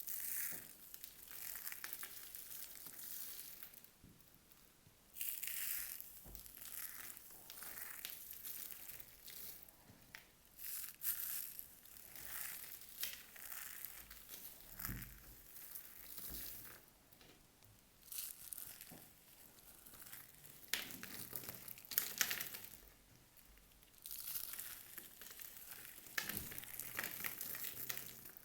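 Knife cutting through dry bar soap, a crisp crunching and crackling that comes in irregular strokes.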